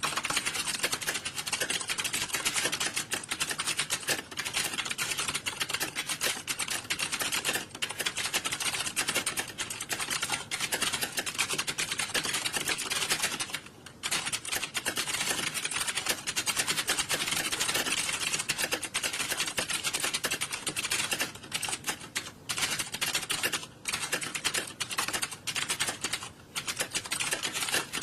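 Many computer keyboards being typed on at once: a dense, continuous clatter of key clicks, easing off briefly about halfway through and again near the end.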